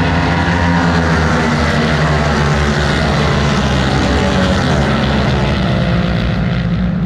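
Racing motorcycle engines at high revs on the track, several at once, their pitch shifting up and down as they accelerate and shift.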